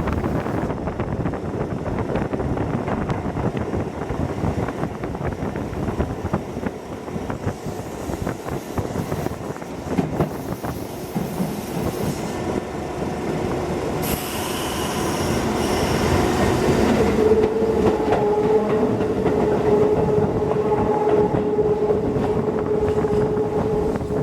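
Hokuso Railway 7260-series electric train running, heard from inside the carriage: a steady rumble with the clatter of wheels over rail joints. Partway through a hiss comes up, and a steady whine sets in and holds.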